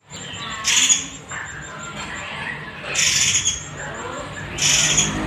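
Murai air bird calling: three loud, raspy calls about two seconds apart, with a thin, high note repeated rapidly between them.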